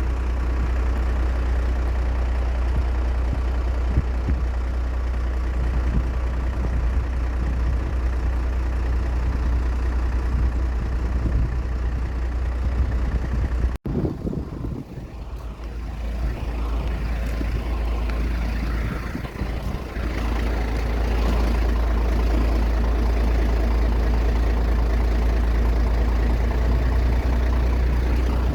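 Aircraft engine noise on an airfield, a steady heavy rumble. It breaks off abruptly about 14 s in, comes back quieter and builds up again to a steady level by about 20 s in.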